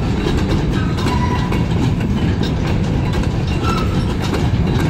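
A long freight train of covered hopper cars rolling past, a steady low rumble with the wheels clicking over rail joints.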